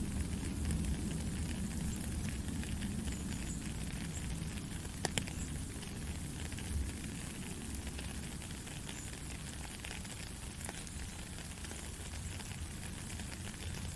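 Heavy rain falling steadily: a dense hiss with scattered sharp drop ticks, two louder ones about five seconds in, over a low rumble that slowly eases.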